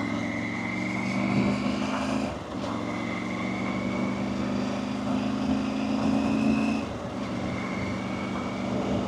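Motorcycle engine pulling through the gears as the bike is ridden, its pitch climbing steadily in each gear. Two brief dips mark the gear changes, about two and a half seconds and seven seconds in.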